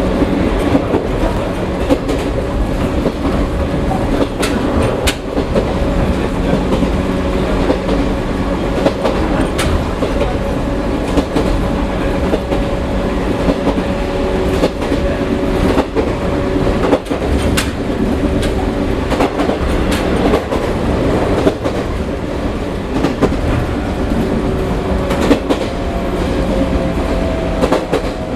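Chichibu Railway 1000 series (ex-JNR 101 series) electric train running, its DC traction motors and gears giving a steady hum of several held tones under a clickety-clack of wheels over rail joints. Near the end the pitch of the hum shifts slightly.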